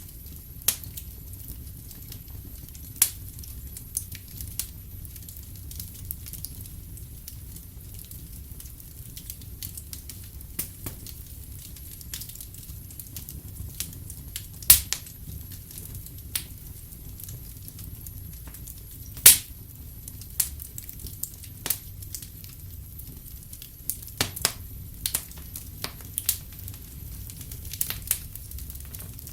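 Wood fire crackling: irregular sharp pops, the loudest about 15 and 19 seconds in, over a low steady rumble.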